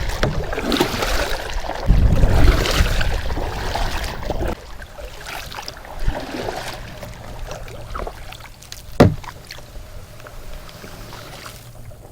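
Sounds from a fishing kayak on the water: a loud low rush for the first four or five seconds, then quieter, with a single sharp knock about nine seconds in.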